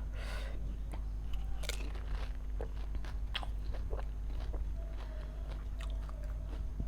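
Close-up crunching and chewing of golgappa (pani puri): crisp hollow puris filled with potato and spicy water cracking between the teeth in quick, irregular crunches.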